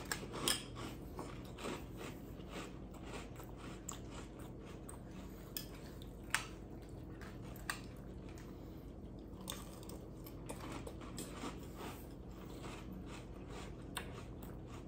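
Crunchy Cap'n Crunch corn-and-oat cereal being chewed with the mouth close to the microphone: a run of faint, irregular crackling crunches. A spoon clicks against the bowl a few times, sharper than the chewing.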